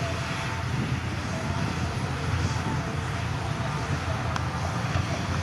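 Heavy diesel engine of earthmoving machinery running steadily, with a deep, even drone.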